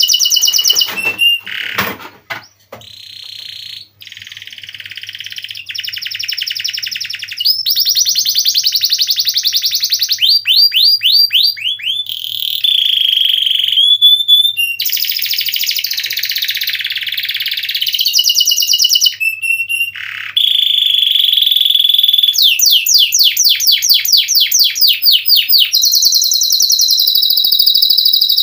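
Domestic canary singing a long, fast rolling song of rapid trills, quick repeated rising notes and held whistles, with a few brief pauses.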